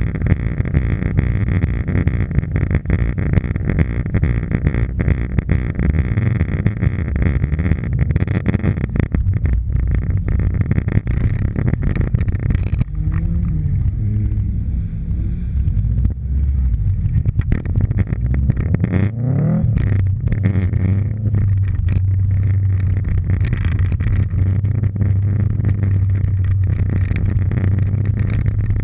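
Subaru Impreza STI's turbocharged flat-four engine heard from the rear of the car, running through its exhaust. A few rising revs come past the middle, then a steady low drone as the car drives off over snow for the last third.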